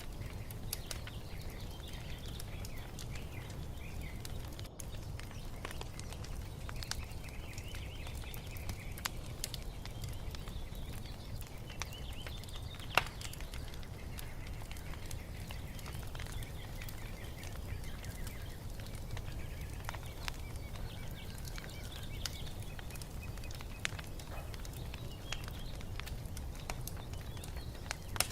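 Wood fire in a fireplace crackling, with scattered small pops and one sharper pop about halfway through, over a low steady rumble. Birds chirp faintly in the background.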